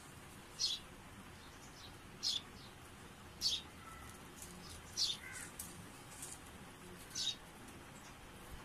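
A small bird chirping: short, high chirps repeated about every one and a half seconds, five of them clearly, over faint background noise.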